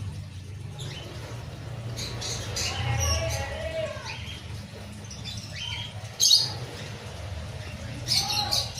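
Pet conure making a few short chirps and squeaks, the loudest about six seconds in, over a steady low hum.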